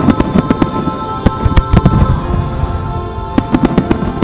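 Fireworks barrage in a starmine set to music: many aerial shells bursting in quick succession with sharp bangs and crackle, a dense run for about two seconds, a short thinning, then a fresh cluster near the end, while music plays underneath.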